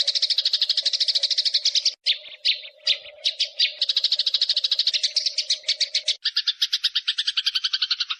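Eurasian tree sparrow (burung gereja) giving its agitated 'fighting' chatter: a fast, continuous rolling run of chirps. It breaks into a few separate chirps about two seconds in, then rolls on, shifting to a lower-pitched chatter near the six-second mark.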